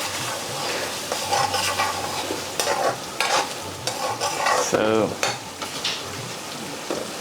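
Lamb curry sizzling as it fries in a hot pan, with a utensil stirring and scraping through it in repeated short strokes.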